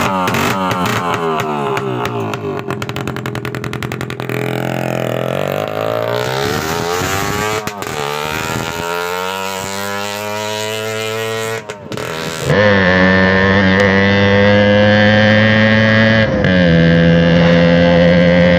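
Loud TVS Max 100R motorcycle engine revving and accelerating, its pitch climbing in several rising sweeps, with a few abrupt breaks. After about twelve seconds it holds a steady high note.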